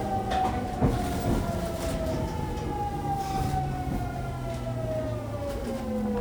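Fukuoka City Subway 2000 series train's Hitachi GTO-VVVF inverter whining under braking: several tones slide steadily down in pitch as the train slows, over the rumble of the car, with a few short clicks.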